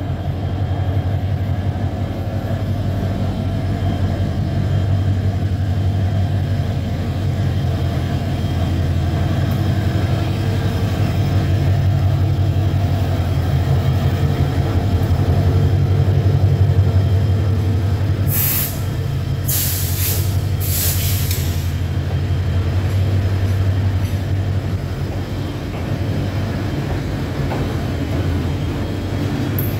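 Diesel locomotive engine running with a steady low drone as it hauls passenger coaches slowly past. About two-thirds of the way through come three short hisses of air, typical of the train's air brakes.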